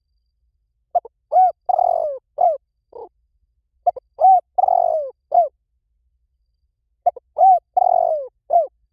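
Spotted dove cooing: three phrases of several hoarse coos each, about three seconds apart. It is a loud, clean call recording of the kind played as a lure for doves.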